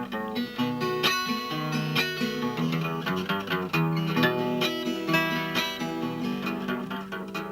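Acoustic guitar played without singing, a run of strummed and picked chords with quick successive note attacks.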